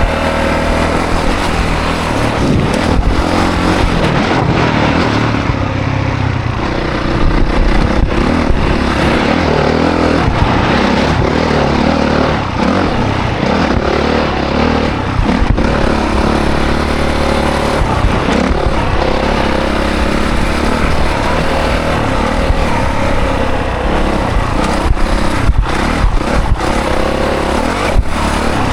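2024 Honda CRF450 dirt bike's single-cylinder four-stroke engine revving up and down continuously as the bike is ridden hard.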